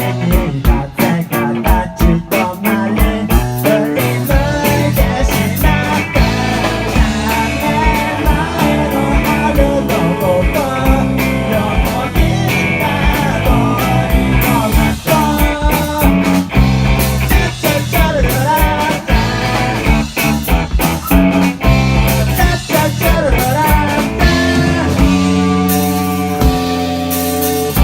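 Rock band playing live: an instrumental passage with electric guitar over bass and a steady drum beat, the guitar line bending its notes up and down in the middle, settling into longer held chords near the end.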